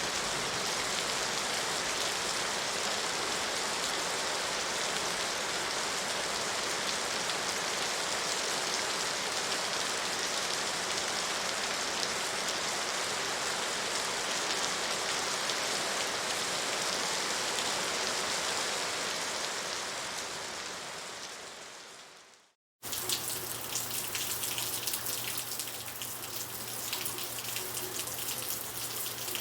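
Steady, even rain that fades out about three-quarters of the way through. After a brief silence, rain starts again with sharper, distinct drops pattering and a steady low hum underneath.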